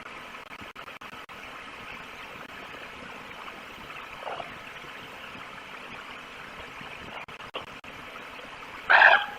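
A wolf gives one short, loud call near the end, over a steady rushing hiss.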